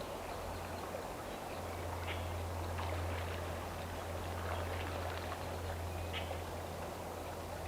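Outdoor ambience: a steady low rumble and an even hiss, with a few faint short bird chirps scattered through.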